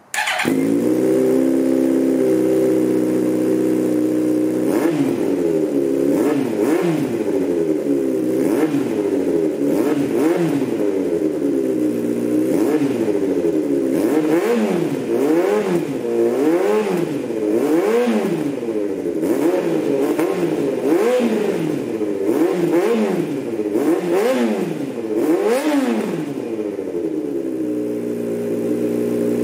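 A 2003 Yamaha YZF-R1's inline-four engine running through an aftermarket slip-on exhaust. It starts and idles steadily for a few seconds, then is revved up and down again and again, about every second and a half, before settling back to idle near the end.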